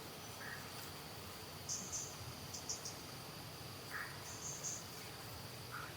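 Insects droning steadily on one high note, with short high chirps breaking in every second or so.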